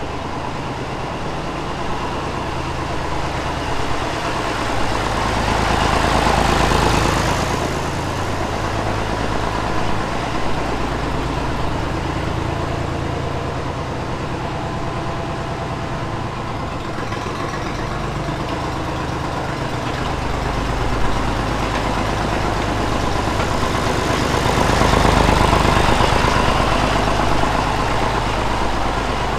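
A tractor engine running steadily. It grows louder twice, once about six or seven seconds in and again near the end.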